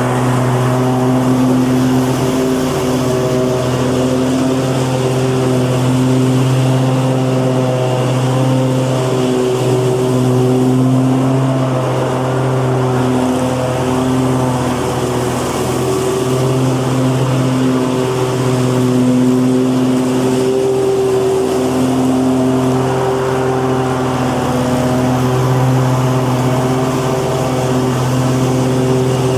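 Lawn mower engine running steadily, an even, unbroken drone with no change in speed.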